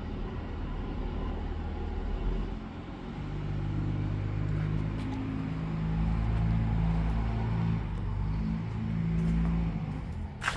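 Diesel truck passing, its low engine drone building from about three seconds in and easing off near the end; by ear it sounds like a second-gen diesel.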